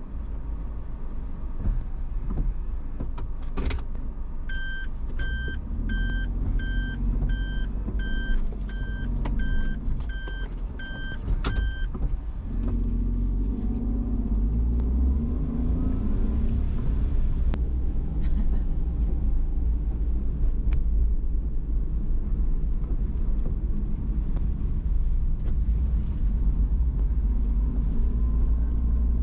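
Car cabin: the engine runs with a steady low rumble while the car's warning chime beeps evenly, about one and a half beeps a second, for some seven seconds. Two sharp knocks come, one just before the chime starts and one as it stops. Then the car drives off, its engine rising and falling as it gathers speed.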